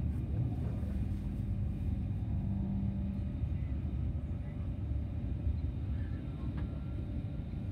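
Low, steady rumble of a high-speed electric multiple-unit train's running gear, heard from inside the carriage as the train pulls out of the station. A low steady hum sounds over it and stops about three seconds in.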